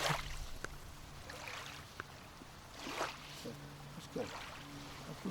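Water lapping and splashing softly against a small boat, in a few gentle swishes, the clearest about three seconds in, over a faint steady low hum.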